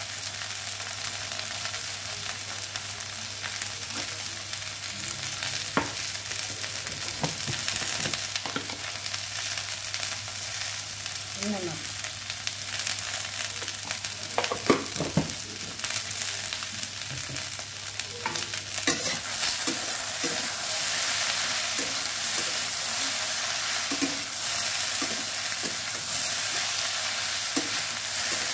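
Sliced okra and potatoes frying in oil in a metal kadhai, giving a steady sizzle. A spatula scrapes and knocks against the pan now and then as the vegetables are stirred. The sizzle grows louder about two-thirds of the way through.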